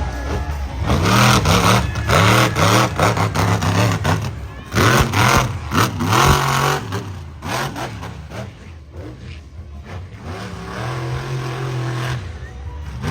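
Monster truck engine revving hard again and again, its pitch rising and falling, with two sharp thumps a second and a half apart about midway. The engine drops back, then holds a steady note near the end.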